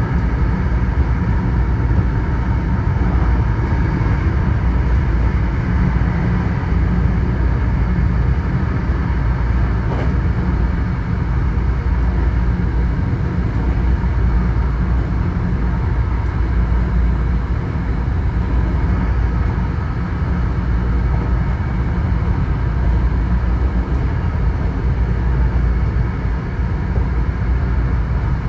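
Hankyu electric commuter train running steadily, heard from inside the leading car: a constant low rumble of wheels on rail with a faint steady whine above it.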